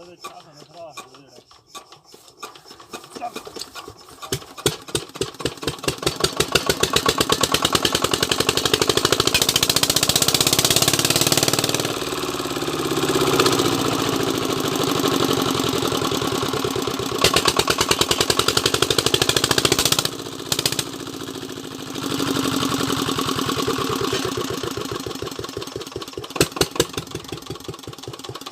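Diesel engine of a belt-driven tubewell water pump starting: a few slow, uneven firing knocks about two seconds in pick up into loud, steady, rapid firing by about six seconds. The level dips briefly around twenty seconds and eases off slightly near the end.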